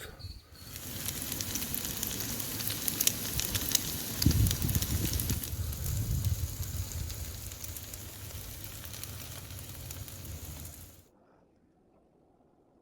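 Hash browns sizzling and crackling as they fry, with a low thud about four seconds in. The frying cuts off suddenly near the end.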